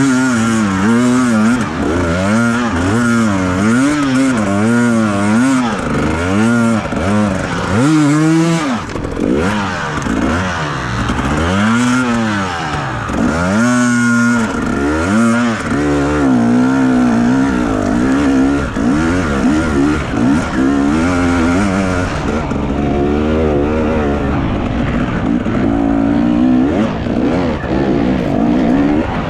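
Enduro motorcycle engine being ridden, the throttle opened and shut over and over so the revs rise and fall about once a second.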